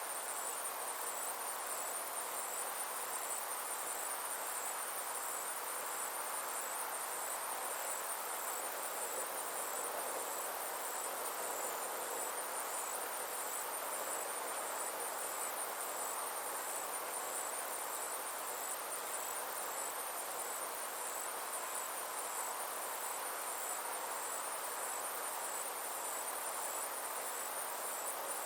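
Summer insects trilling steadily in a high, fast-pulsing band, over a soft even hiss.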